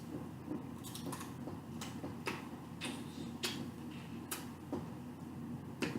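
Crawfish and crab shells being cracked, peeled and eaten close to the microphone: a string of sharp, irregularly spaced clicks, roughly one or two a second, over quiet chewing.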